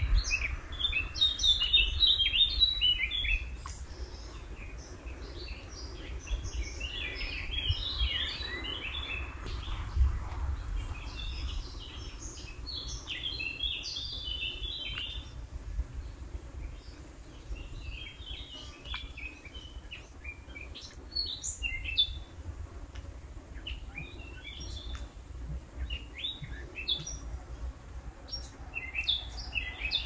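Songbirds singing: phrases of quick, high chirps a few seconds long, coming again and again with pauses between, over a low rumble.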